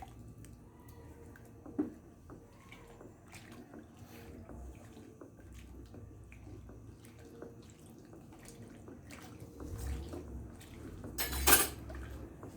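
Thick, foaming soap mixture being stirred with a small paddle in a container, a soft sloshing with light scraping clicks, to blend the added syrup, lauryl and disinfectant into the freshly saponified soap. One louder knock sounds near the end.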